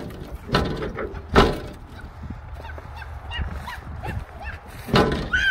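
Door of an old, long-abandoned Chevy truck being worked: a few knocks, then a squealing hinge creak near the end.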